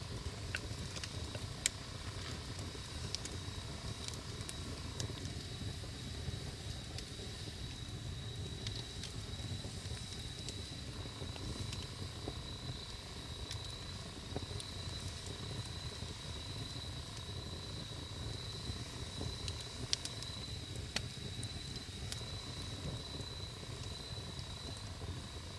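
Wood fire burning with a low steady rumble and scattered crackles, with a sharper pop about two seconds in and another about twenty seconds in.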